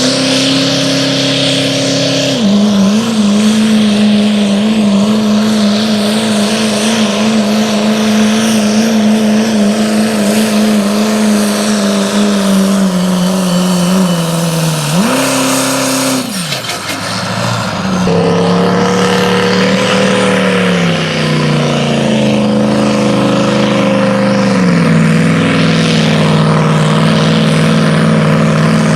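A pulling truck's engine running hard at high revs under load. Its pitch holds fairly steady with small wavers. About halfway through, the revs jump up briefly and fall away, then build back and settle at a steady high pitch.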